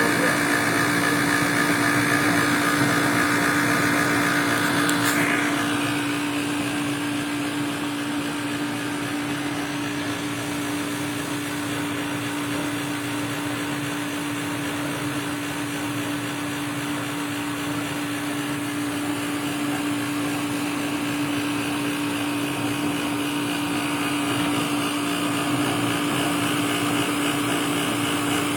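Furnace running: a steady hum over a haze of blower air noise. About five seconds in, a higher whine stops with a click and the sound gets quieter, then it slowly builds again near the end.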